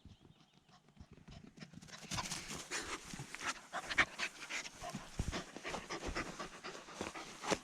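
A dog panting rapidly close by, starting about a second and a half in.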